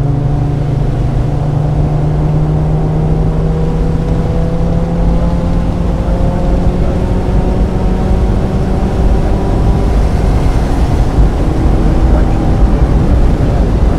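1995 Mazda Miata's 1.8-litre four-cylinder engine pulling under acceleration on a wet track, its pitch rising slowly, with a heavy rumble of road and tyre noise underneath. About nine seconds in the note drops away, then it runs on again at a steady pitch.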